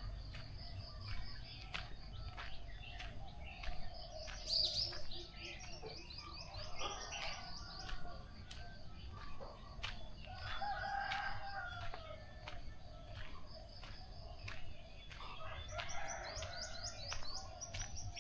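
Dawn bird chorus: many small birds chirping and trilling in quick high series, with a rooster crowing once about ten seconds in.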